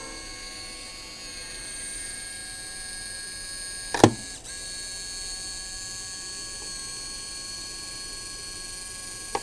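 Small electric gear motors running the miniature machine-shop models: a steady motor whine with several high tones, broken by one sharp click about four seconds in.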